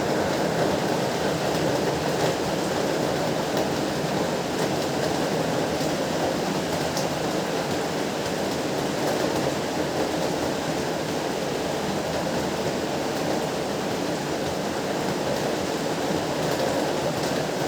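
Heavy rain pouring steadily: a dense, even rush with no let-up, weighted toward the low and middle range.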